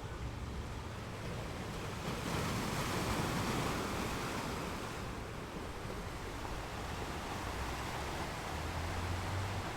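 Ocean waves breaking and washing on a shore, a steady surf noise that swells for a few seconds and eases off, with a low rumble near the end.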